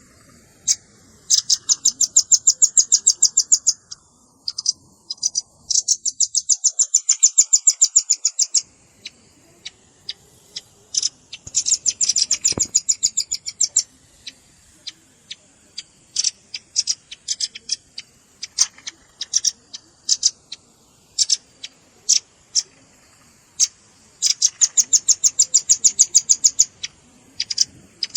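Velvet-fronted nuthatch calls: sharp, high chips, some single and some run into fast trills of about ten notes a second. There are four trills, each lasting one to three seconds.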